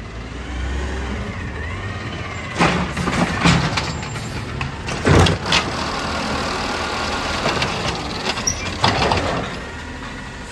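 Amrep garbage truck running at work: a steady low engine rumble with a whine that rises and falls early on, broken by several sharp clanks, the loudest about halfway through.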